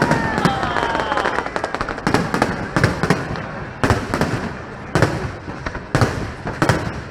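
Fireworks display: a run of sharp shell bursts about once a second, with crackling in between.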